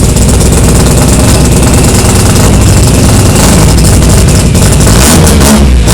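Knight Sports-tuned Mazda RX-8's two-rotor rotary engine idling loudly just after start-up, warming up, with a rapid uneven pulsing.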